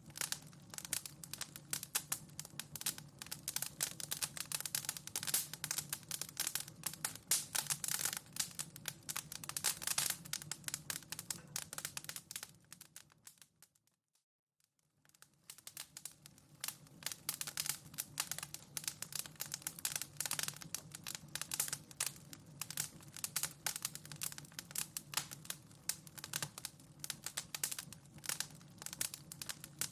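Wood fire crackling in a fireplace, with many small irregular pops and snaps over a low rumble. About halfway through it fades out to near silence, then fades back in.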